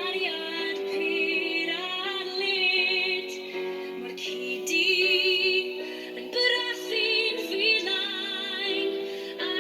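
A young woman's solo voice singing a slow Welsh-language song with marked vibrato on long held notes, over a steady sustained instrumental accompaniment.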